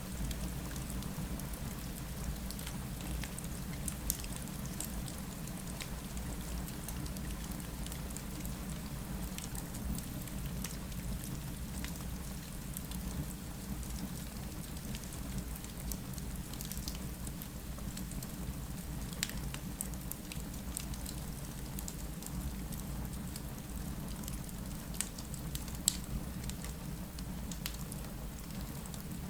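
Steady rain against a window blended with a fireplace crackling: an even rushing hiss with scattered sharp pops, one louder pop near the end.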